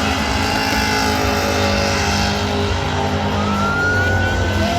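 Car engine held at high revs during a burnout, running loud and steady, with a thin whine that rises from about three and a half seconds in.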